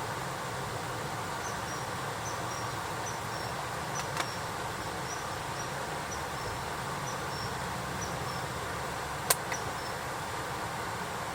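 Crickets chirping in short high chirps, a bit more than one a second, over a steady hiss, with two sharp snaps about five seconds apart, the second louder.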